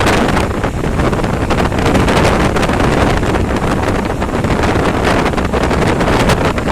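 Steady wind rush buffeting the microphone, mixed with the running noise of a moving vehicle on the highway.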